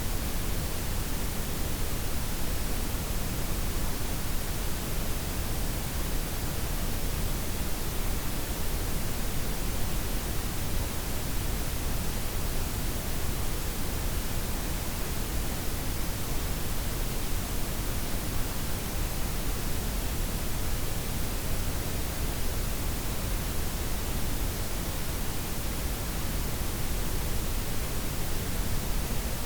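Steady synthetic noise blend of white, pink and brown noise: an even, unchanging hiss with a full low rumble underneath and no rhythm or events.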